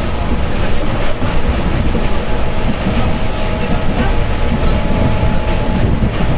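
Electric passenger train running on the rails, heard from inside the carriage: a steady, loud rumble of wheels on track with a few scattered knocks from the wheels over rail joints and a faint steady whine.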